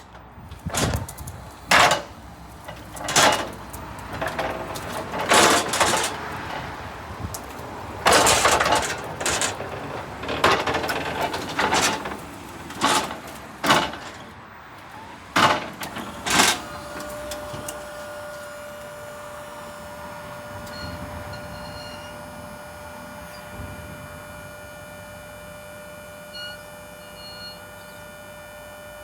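Linde L10 electric pedestrian stacker: a string of loud knocks and clatters, then, about 16 seconds in, its electric motor starts a steady whine that runs until near the end.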